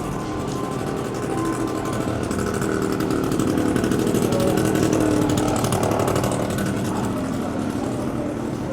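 Engine of a passing motor vehicle, a steady buzzing drone that grows louder to a peak about four to five seconds in and then fades.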